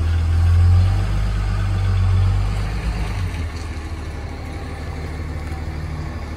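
A motor vehicle's engine running nearby with a low rumble, loudest in the first three seconds and then easing off.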